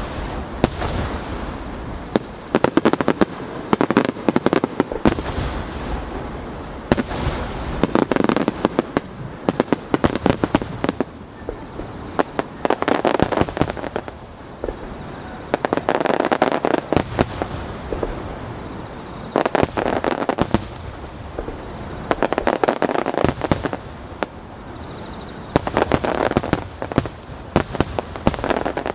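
Aerial fireworks going off in quick succession, with repeated sharp bangs and bursts of crackling throughout.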